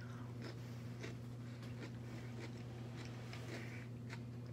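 Faint crunching of a raw cucumber slice being chewed, a scatter of soft little ticks, over a steady low hum.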